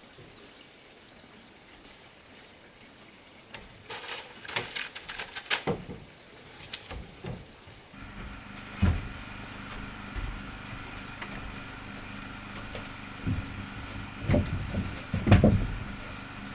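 A run of sharp knocks and clatters, then a steady motor hum that starts about halfway through, with more knocks over it near the end.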